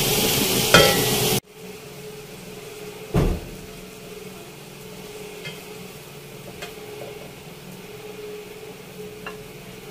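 Spinach and potatoes sizzling in the pan, with one clink of a spoon, cut off suddenly about a second and a half in. Then a quiet background with a low steady hum and a single thump about three seconds in.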